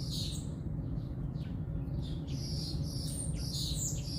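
Several small birds chirping and twittering in short, high, quick calls, over a steady low rumble.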